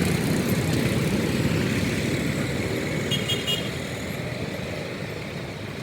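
Road traffic: a motor vehicle passing close by, its noise slowly fading as it moves away, with a brief high beeping about three seconds in.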